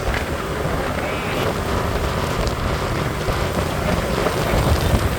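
Wind buffeting the microphone over a steady wash of street traffic while riding through city traffic.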